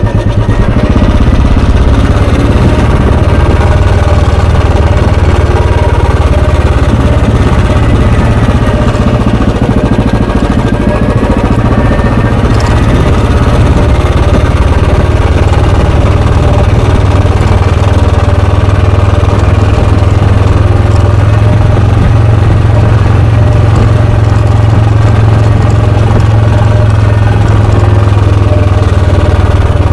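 Exhaust of a Royal Enfield Bullet 350's single-cylinder, four-stroke, air-cooled engine, running steadily and loud throughout, its low beat rising a little in strength in the second half.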